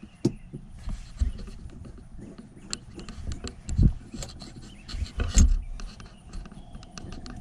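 Irregular small clicks and rattles of hands working a soft plastic shift knob onto a car's gear lever, with a few dull handling thumps, the loudest a little past the middle.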